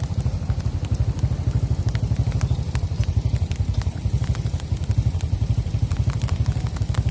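A small engine running steadily with an even low chugging, about eight beats a second, with faint scattered clicks over it.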